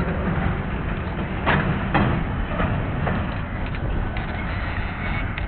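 Train rolling along the track: a steady low rumble with a few sharp knocks of wheels over the rail joints.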